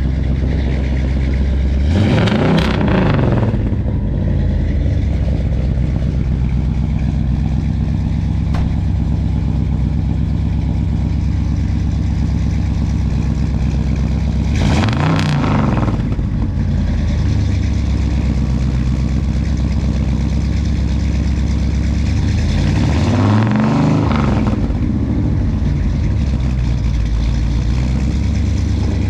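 Car engine idling steadily, revved three times, each rev rising and falling back within a second or two.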